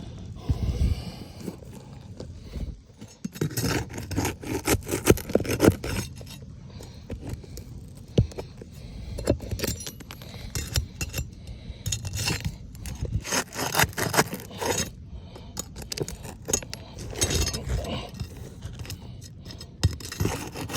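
Irregular scraping and rubbing with clusters of short clicks and rattles, like objects being handled and worked on by hand.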